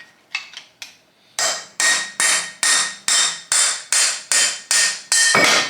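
A hammer striking an air-cooled VW engine cylinder (jug) to knock it loose from the crankcase. A couple of light taps are followed by a steady run of about nine sharp, ringing blows, roughly two and a half a second. The run ends in a longer clatter near the end.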